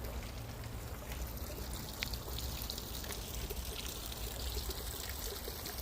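Running water in a garden pond: a steady trickle and splash.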